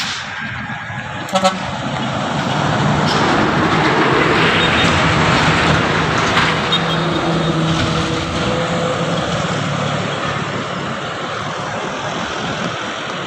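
Heavy truck engine running under load on a steep uphill road, with two short horn toots about a second and a half in.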